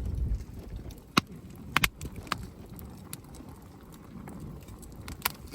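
Wood campfire burning, with a handful of sharp pops and cracks from the burning wood, the loudest a second in and a quick pair just before two seconds, over a low steady noise.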